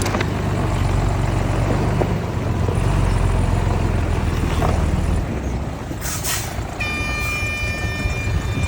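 Diesel engines of earthmoving machinery running steadily, with a low drone that dips about five seconds in. A short hiss follows about six seconds in, then a steady high tone to the end.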